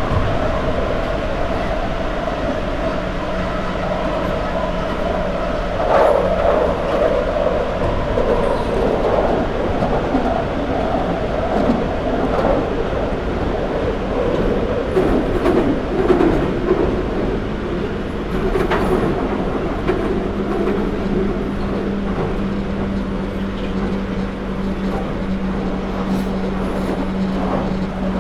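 London Underground 2009 Stock train heard from on board while running through a tunnel: a steady rumble of wheels on rail with scattered clicks and knocks. A steady traction-motor hum comes in about twenty seconds in.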